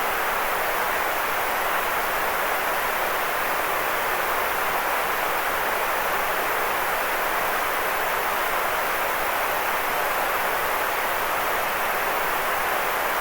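Steady electronic white noise used as a sleep aid: an even, unchanging hiss, fullest in the middle range and thinner in the deep bass and the high treble.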